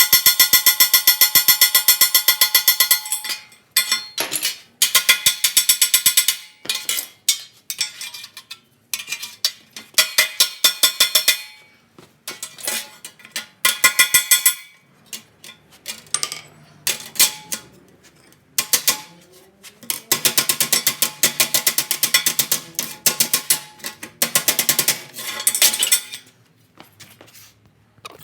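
Hammer blows on a sheet-steel patch panel, stretching the metal: rapid runs of sharp, ringing metallic strikes in bursts of a few seconds, with short pauses between them.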